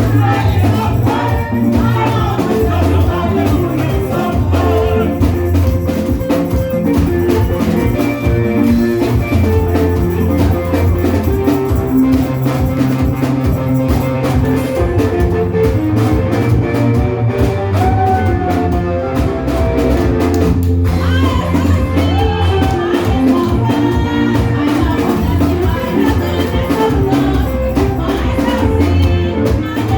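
Live praise music with drums, bass and keyboard, and some singing.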